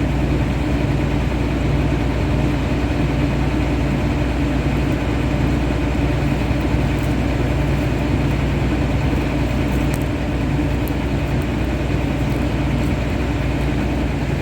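Combine harvester's diesel engine and machinery running steadily with a low drone, run after a jam was cleared to check that the beans flow through.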